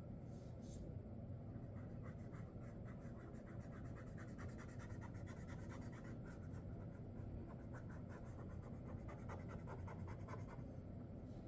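Sharpie Creative Marker tip drawing on paper in many quick, short scratchy strokes, starting about a second and a half in and stopping near the end. A steady low hum runs underneath.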